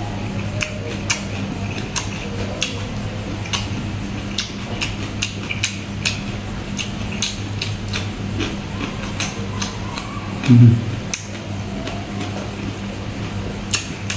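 Close-up chewing of spicy salmon and papaya salad with raw vegetables: irregular wet mouth clicks and crunches, two or three a second, over a steady low hum. A short, louder low sound comes about ten and a half seconds in.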